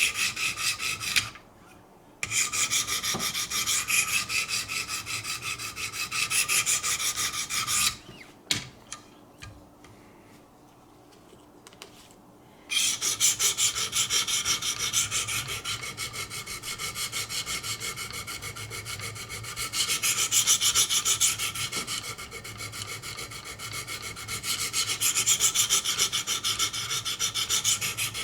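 Diamond sharpening stones of a Wicked Edge guided sharpening system scraping back and forth along a hard D2 steel knife blade in rapid strokes, grinding in the bevel to raise a burr. The strokes stop briefly about a second in and again for about four seconds in the middle, then resume.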